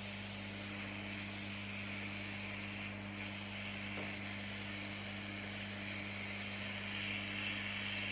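Steady air hiss from a hot air rework station blowing, over a constant low electrical hum.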